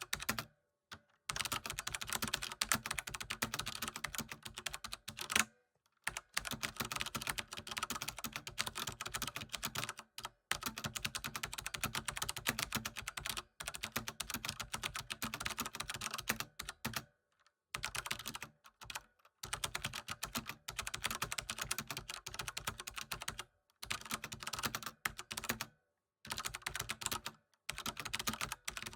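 Continuous typing on a computer keyboard: fast runs of key clicks broken every few seconds by brief pauses.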